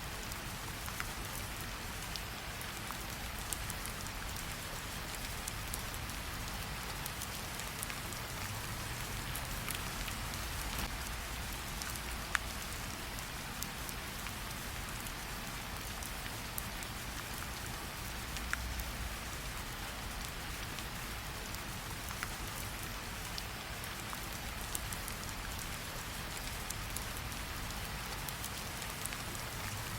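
Steady rain falling, with now and then a sharp pop or crackle from a campfire, the sharpest about twelve seconds in.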